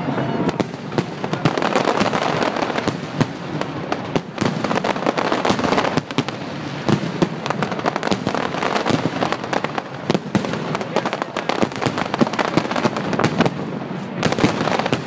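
Large fireworks display: a dense, continuous barrage of bangs and crackles.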